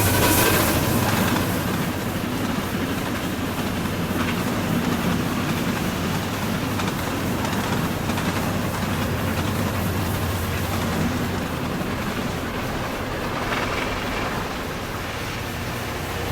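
A train running along the track: a steady rolling rumble with a low hum, easing a little in level near the end.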